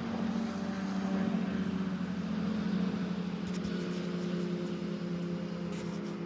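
A steady engine drone holding an even pitch, with a few faint ticks over it after about three and a half seconds.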